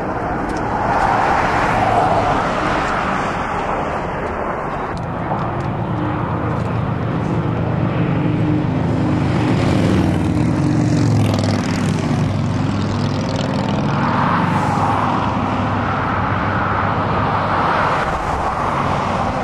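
Motor vehicle noise: a steady rush of traffic, with an engine drone swelling through the middle and then fading.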